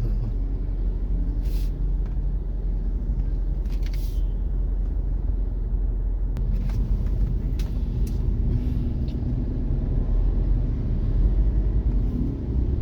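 Steady low rumble of a car idling in stopped traffic, heard from inside the car, with a few faint clicks.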